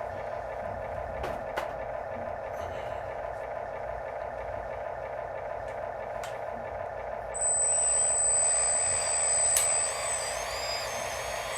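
Small electric motors of radio-controlled construction models running with a steady whir. About two-thirds of the way through, a louder high-pitched whine starts, shifts in pitch for about three seconds and then drops back, with a few light clicks earlier.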